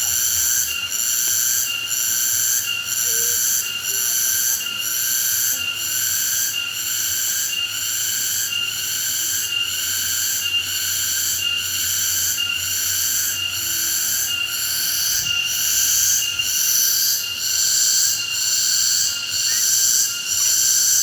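Insect calling loudly and steadily: a shrill, multi-toned buzz that pulses about once a second without a break.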